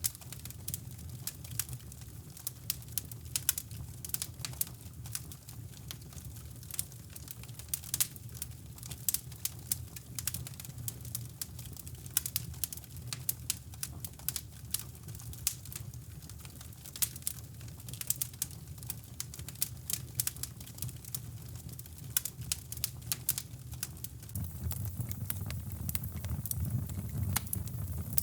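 Wood fire crackling in a fireplace: irregular sharp pops and snaps over a steady low brown-noise rumble, which grows louder near the end.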